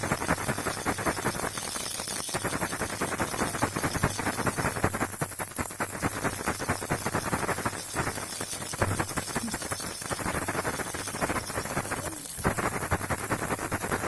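Baby rattle shaken continuously, a fast clatter of small beads with a few brief pauses, over a steady high hiss.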